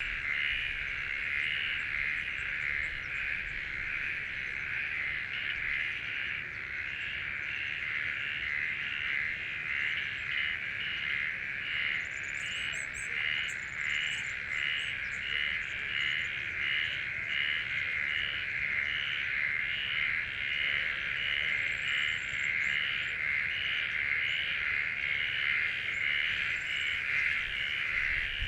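Steady animal chorus, a dense, high, pulsing sound that beats about twice a second, with a few faint high chirps about halfway through.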